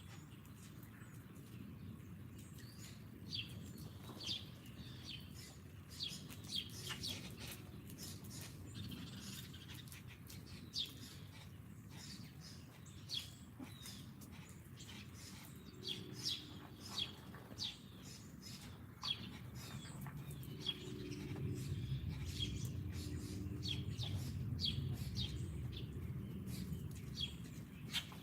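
Small songbirds chirping: many short, high, downward-slurred chirps scattered irregularly throughout. A low rumble swells in the background over the second half.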